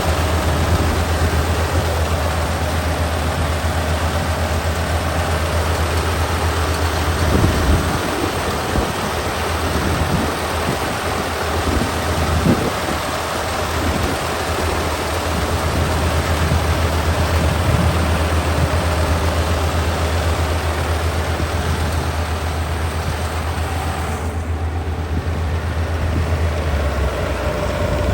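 Kubota ER572 combine harvester running steadily while harvesting: a low diesel engine hum under a dense mechanical clatter from the machinery. The low hum turns uneven for several seconds after about eight seconds in, then steadies again.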